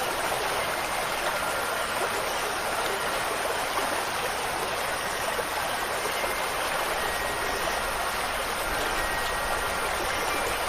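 Steady rush of a flowing stream, an even wash of water noise. A few faint, long-ringing wind-chime tones sound over it at different moments.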